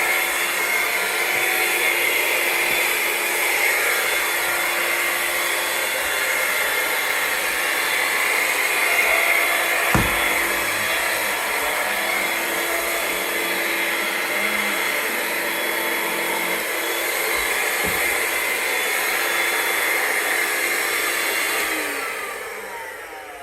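Hoover Lynx cordless vacuum's motor running steadily on a Ryobi lithium battery, with a couple of light knocks from handling. Near the end it is switched off and the whine falls away as the motor spins down.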